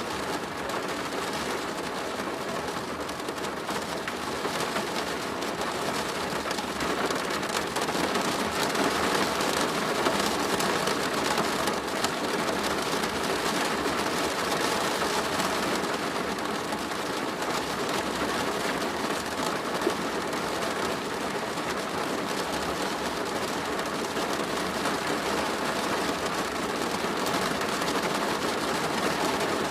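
Steady rain drumming on a plastic roof, a dense even patter of many drops.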